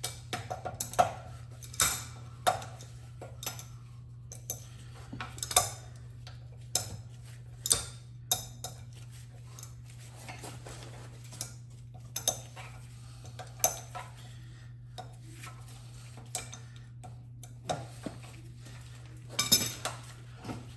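Metal tools and sprayer parts clinking and knocking at irregular intervals as the Graco airless sprayer is taken apart, with a cluster of louder clanks near the end, over a steady low hum.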